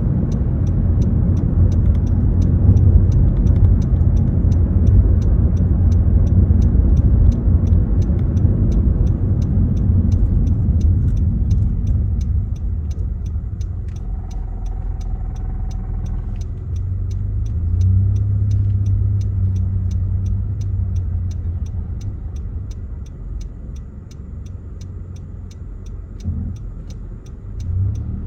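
Muffler-deleted 2.4-litre four-cylinder of a 2017 Honda Accord LX, heard from inside the cabin with the windows up: a loud low exhaust rumble under way, easing off after about twelve seconds, swelling again briefly, then dropping quieter near the end as the car slows.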